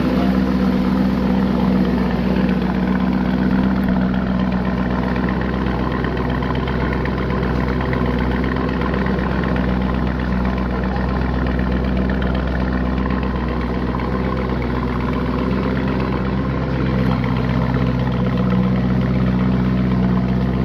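Car engine running steadily with an even low hum that holds its pitch.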